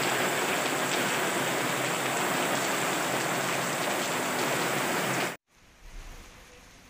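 Heavy rain pouring onto a wet road and ground, a steady hiss. It cuts off abruptly about five seconds in, leaving a much quieter background.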